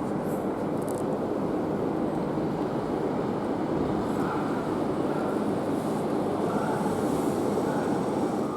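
Train moving along the station platform: a steady, even rumble of wheels and running gear.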